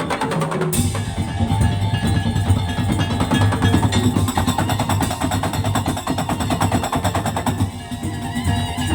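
Madurese tong-tong (daul) percussion ensemble playing a fast, dense rhythm on wooden slit drums and drums, with a pitched melody over it. The playing thins out briefly near the end.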